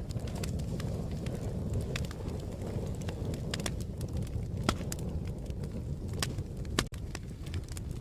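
Fire crackling: a steady low rumble of flames with irregular sharp pops and snaps, a few each second.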